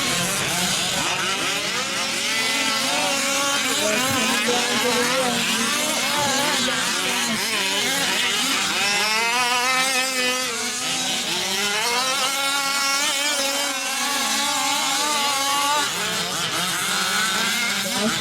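Several 1/5-scale RC off-road trucks' small two-stroke gasoline engines racing together, their pitches rising and falling over one another as the trucks throttle up and back off.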